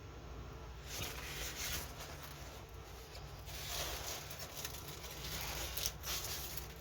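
Rustling and crinkling of plastic packaging being handled, starting about a second in and going on irregularly.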